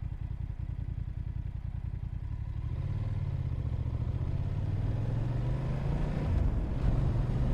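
Motorcycle engine running at a low, steady idle, then from about three seconds in the revs build and it gets steadily louder as the bike pulls away and accelerates.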